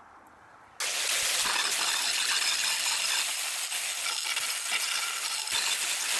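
Angle grinder abrading steel: a steady harsh hiss with small clinks, starting suddenly about a second in.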